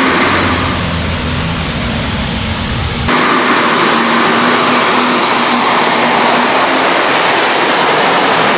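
Diesel super stock pulling tractor under full load down the track, its turbocharged engine running flat out with a steady high turbo whistle over the engine noise. The deep low rumble drops out abruptly about three seconds in, and the engine keeps running.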